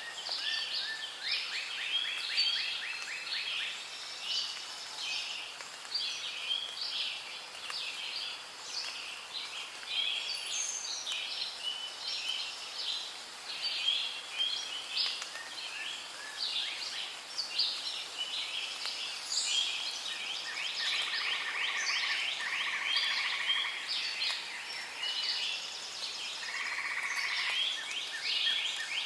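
Rainforest ambience: a dense chorus of overlapping animal calls, with many chirps and rapid trills running on without pause.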